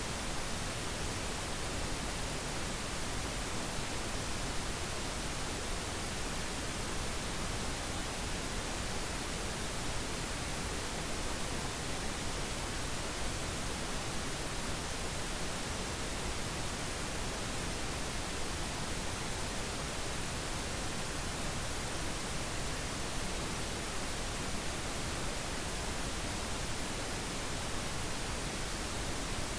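Steady synthetic pink noise: an even, unchanging hiss spread across all pitches, with no events in it.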